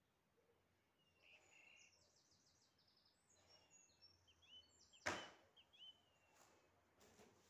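Faint birdsong: short high chirps, falling notes and a quick run of repeated notes, over near silence. A single sharp thump about five seconds in, with a few softer knocks after it.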